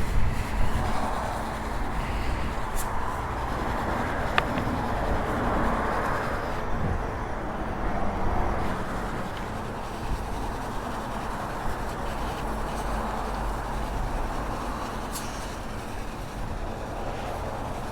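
Self-service car wash pressure washer running, a steady spraying hiss over a low rumble.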